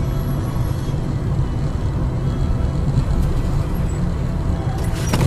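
A car is driving, with a steady low rumble of engine and road noise. Near the end a sudden sharp noise breaks in across the whole range.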